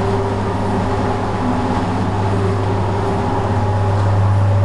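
Steady machine hum with a low drone and a wash of air noise, getting slightly louder near the end.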